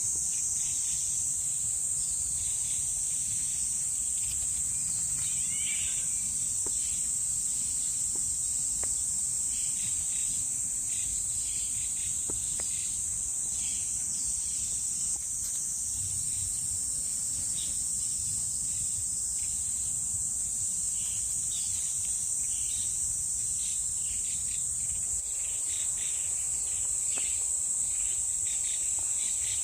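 A steady high-pitched drone of insects fills the woodland. Short bird chirps are scattered through it.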